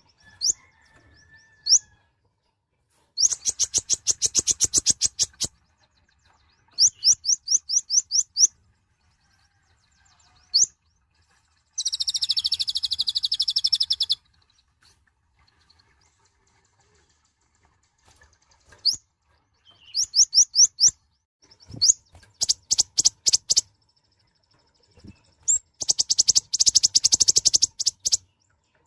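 Kolibri ninja sunbird singing: several quick, high trills of rapidly repeated rising notes, each lasting one to two seconds, with single sharp chirps between them and one harsher buzzy chatter of about two seconds near the middle.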